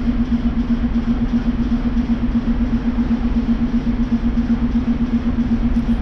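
Steady low hum from a train standing nearby, pulsing quickly and evenly at an unchanging level.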